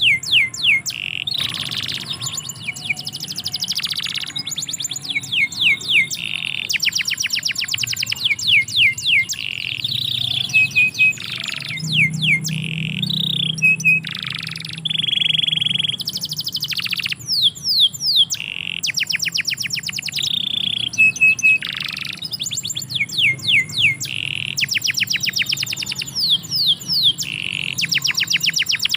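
Domestic canary singing a long continuous song: fast trills of repeated down-slurred notes alternating with held whistles and short chirps.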